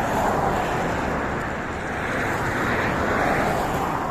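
Steady road traffic noise on a highway: a rushing of tyres and engines that swells and eases a little as vehicles pass.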